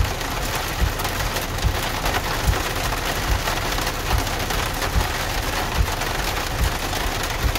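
Rain pelting the roof and windshield of a Jeep Wrangler, heard from inside the cabin as a steady dense patter with scattered sharper knocks.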